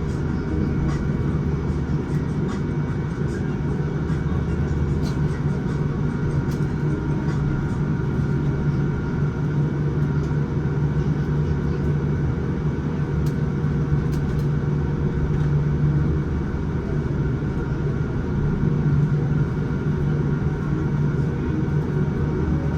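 Steady cabin noise inside a Boeing 787-9 taxiing after landing: the engines run at idle with a constant low hum and a few faint steady whining tones above it. There are occasional faint ticks and rattles.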